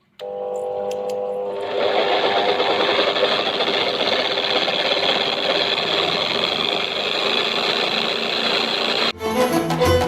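Electric drill running as the motor of a homemade wood lathe, a steady mechanical whir with a hum of several tones at first that fills out after about a second and a half. The sound changes abruptly about nine seconds in.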